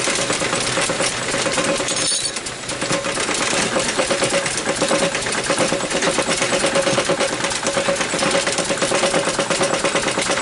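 Small petrol engine running steadily, turning a belt-driven saw blade. There is a brief dip about two seconds in, then it picks up again with a fast, even beat and a steady tone over it.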